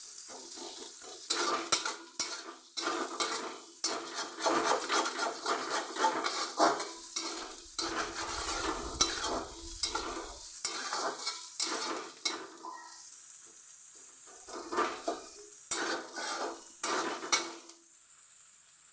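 Sliced onions sizzling in hot oil in a pan while being stirred, the utensil scraping the pan in quick repeated strokes, with a short pause about two thirds of the way through.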